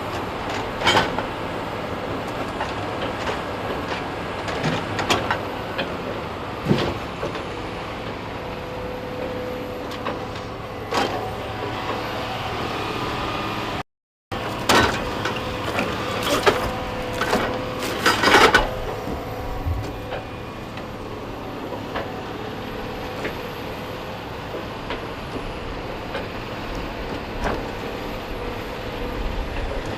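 Heavy logging machinery running steadily, with scattered metallic clanks and knocks, most of them in a cluster a little past halfway. The sound cuts out for a split second near the middle.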